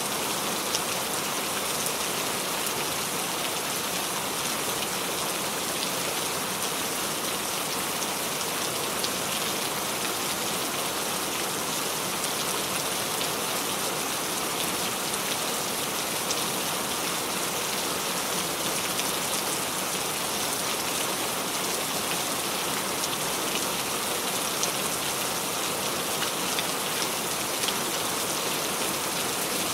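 Steady rain falling, an even hiss with the patter of drops hitting a surface.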